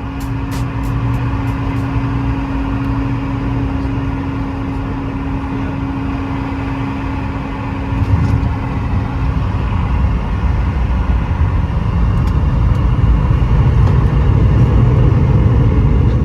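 Cabin noise of a Boeing 717 landing: its rear-mounted Rolls-Royce BR715 engines hum steadily, a sudden bump comes about halfway through (the touchdown), and then a louder low rumble builds toward the end as the aircraft rolls out on the runway.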